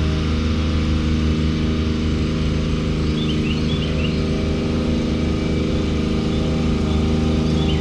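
A small engine running steadily at a constant speed, with a few short high chirps about three seconds in and again near the end.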